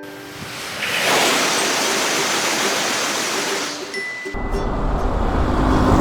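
Train rushing through a level crossing: a loud, even whoosh for about three seconds. A deep vehicle rumble starts about four seconds in.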